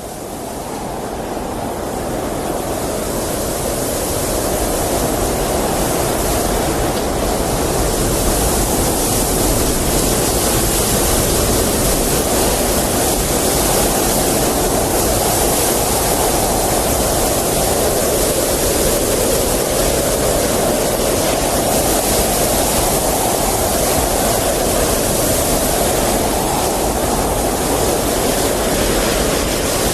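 Blizzard wind blowing as a steady, dense rush. It fades in over the first several seconds, then holds with slow swells.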